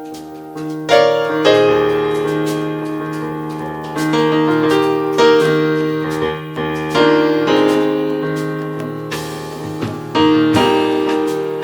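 Piano playing slow chords, new notes struck every second or two and left to ring and fade.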